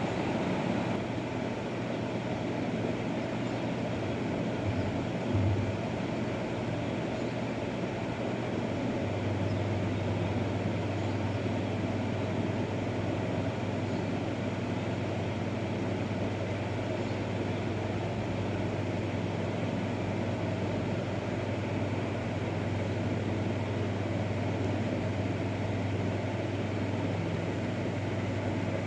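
Motor pump running steadily as it sucks water off a flooded field: a constant low hum over an even hiss, the hum growing stronger about nine seconds in.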